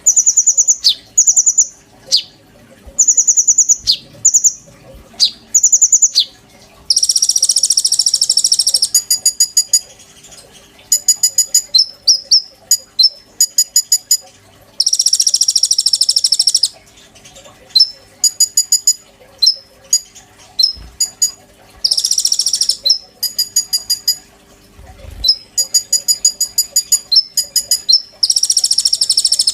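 A konin songbird singing loudly and continuously. Short, piercing whistled notes come first; then long buzzing trills alternate with rapid runs of sharp chipping notes, in phrases repeated every few seconds.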